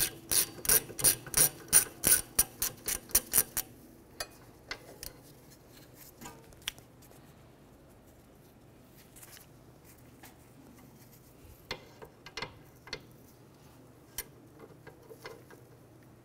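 Hand ratchet clicking quickly and evenly, about four clicks a second, as a 14 mm rear hub bolt is backed out. The clicking stops about four seconds in, leaving a few quieter scattered clicks and taps.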